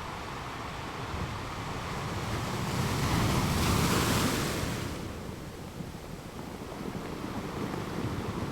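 Ocean waves breaking on a beach: one wave builds, crashes about three to four seconds in with a hissing rush, and fades a second or so later into the steady wash of surf.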